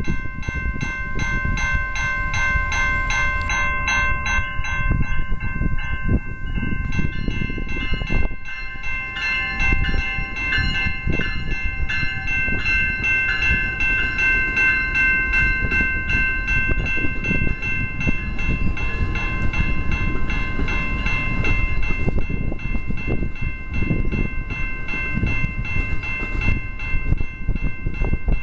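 AMT commuter train with multilevel coaches running by: a steady rumble of wheels on rail, with frequent clicks over the rail joints and several steady high-pitched tones ringing above it.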